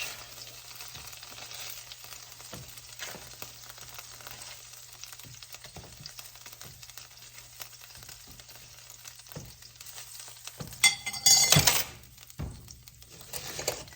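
Chicken sizzling in a frying pan as it is stirred and scooped out, with scattered scrapes and clicks of the utensil. About eleven seconds in comes a loud clatter of utensil against pan or bowl.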